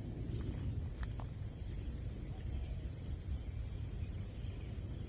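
Insects trilling steadily in a continuous high-pitched chorus, over a low rumble.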